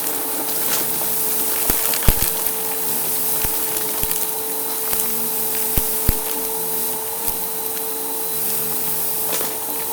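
Vacuum cleaner with a brushroll running steadily, its motor giving a constant whine over the rush of air, with scattered sharp crunching ticks as debris is picked up.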